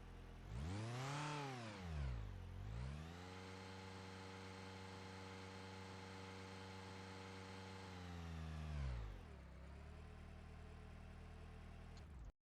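Car engine idling, revved once briefly about half a second in and let fall back, then revved again and held at a steady higher speed for about five seconds before dropping back to idle. The sound cuts off abruptly near the end.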